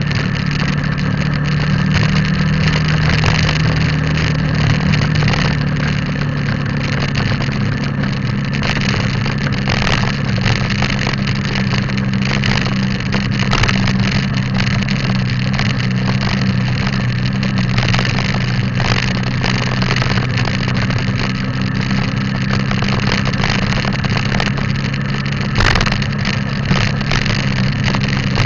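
Motorcycle engine running at a steady pitch while riding along.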